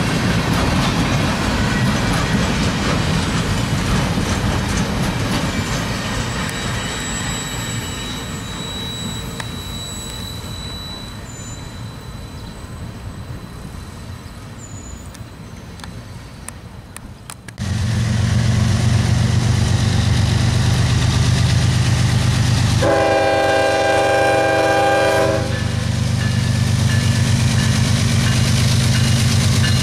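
Flatcars of a loaded military train rolling past on jointed rail and fading as they move away. About 17 seconds in a diesel locomotive takes over, running under power with a deep steady engine drone. It sounds its air horn once for about two and a half seconds, some 23 seconds in.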